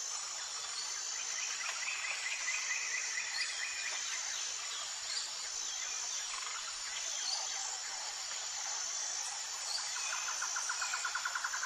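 Tropical forest ambience: insects shrilling in a steady high pitch with birds calling over them. A rapid pulsed trill comes in about a second in and another near the end, with short chirps between.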